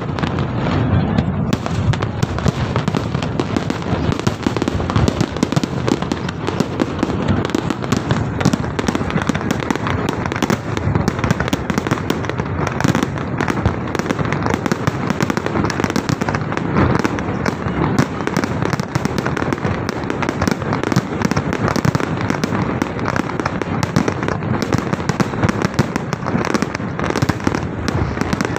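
Fireworks display: a dense, unbroken barrage of overlapping bangs and crackles at a steady loud level.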